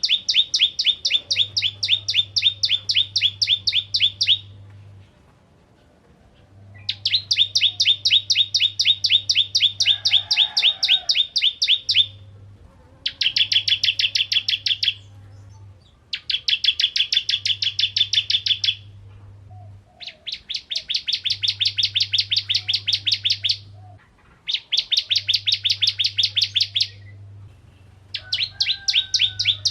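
Bar-winged prinia (ciblek kristal) singing in repeated bouts of rapid, evenly spaced high notes, about five a second. Each bout lasts two to five seconds, with short pauses between.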